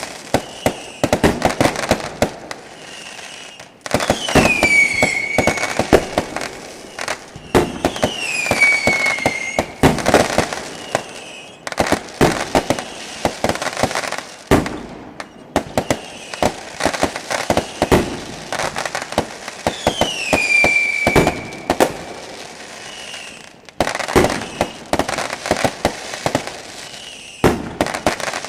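Fireworks going off: rapid crackling and popping bangs, with several whistles that fall in pitch and then hold.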